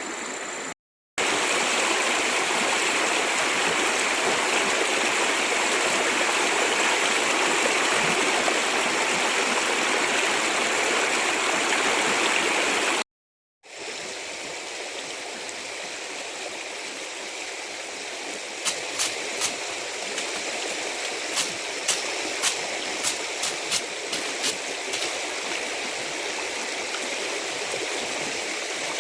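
Running water of a stream, a steady rush. After a brief cut about halfway through it is quieter, and a run of sharp clicks sounds over it later on.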